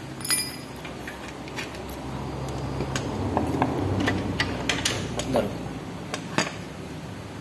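Scattered sharp metallic clicks and clinks of work on a motorcycle engine, over a steady low hum, with a louder rustling stretch in the middle.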